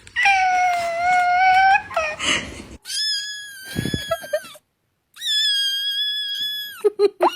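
A cat yowling in one long, drawn-out meow, followed by two higher, steadier long animal cries and a few short squeaks near the end.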